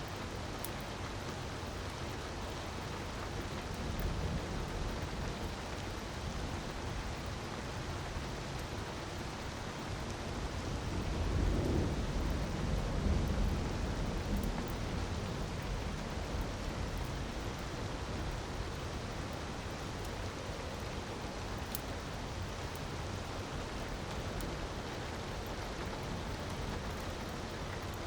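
Steady rushing of a waterfall, with a few faint sharp crackles from a wood fire. A low rumble swells and fades about halfway through.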